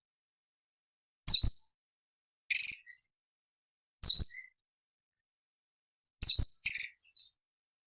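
Cucak cungkok leafbird calling in short separate phrases: three sharp down-and-up whistled notes, with a harsh scratchy rasp after the first and the last, silent gaps between.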